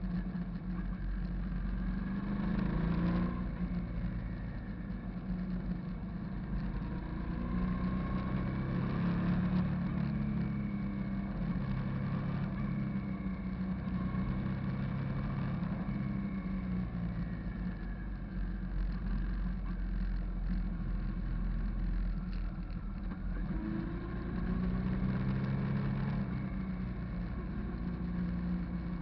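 Hyosung GV650 cruiser's V-twin engine running while riding, its pitch rising and falling several times as the throttle and gears change.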